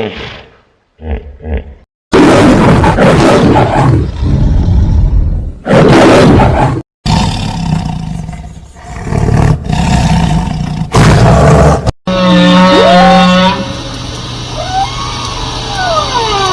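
A large animal roaring loudly in several long, deep bouts. Then, about twelve seconds in, a different recording of high whistling calls that glide up and down.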